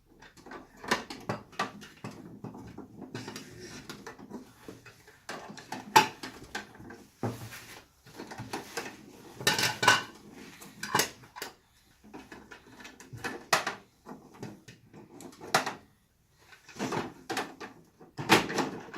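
Hard plastic parts of a Bruder MAN toy garbage truck clicking, knocking and rattling in irregular bursts as it is handled and loaded with toy garbage by hand.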